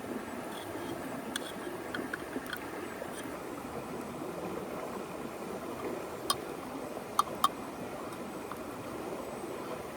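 River flowing steadily, with a few sharp crackles from a campfire, the loudest pair a little past the middle.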